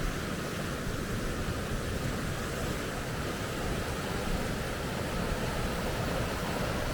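Steady rush of water from river rapids, an even noise with no breaks.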